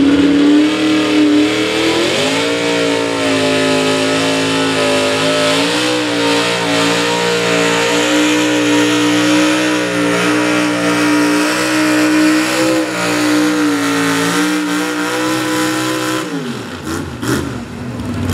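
Pulling truck's engine held at high revs under load during a truck-pull run. Its pitch climbs about two seconds in and stays high with small wobbles. It falls away near the end as the throttle comes off.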